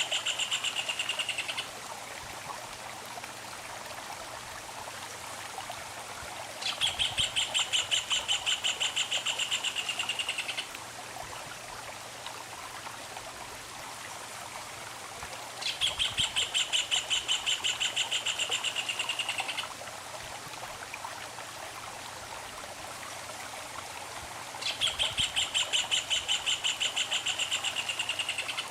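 A songbird sings a fast, evenly pulsed trill in bouts of about four seconds, repeating about every nine seconds, four bouts in all. A steady rush of running stream water sounds throughout.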